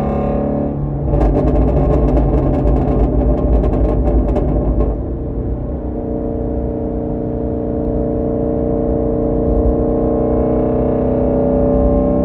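2017 Shelby GT350's V8 running through a straight-through exhaust with the resonator and mid pipes deleted and the valves open. A steady cruising drone gives way about a second in to several seconds of rapid exhaust crackling and popping. Then the engine note returns and climbs slowly.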